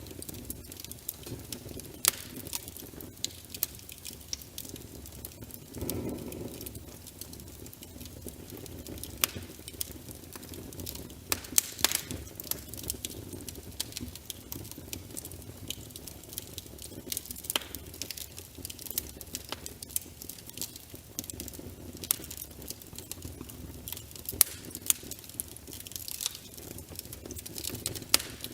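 Wood fire crackling, with frequent sharp pops and snaps over a low steady rush of flame; a brief louder swell about six seconds in.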